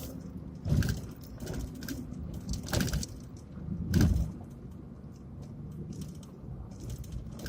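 Inside a pickup truck's cab while driving: a steady low engine and road drone with scattered knocks and rattles, three of them louder.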